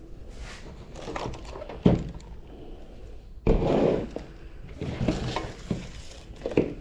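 Handling noises while a mini lathe is being temporarily bolted down: scattered clunks, a sharp knock about two seconds in, and a louder scraping rustle around the middle.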